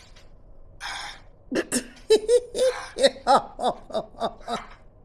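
A person laughing in a run of short bursts, about three a second, after a short breathy rush about a second in.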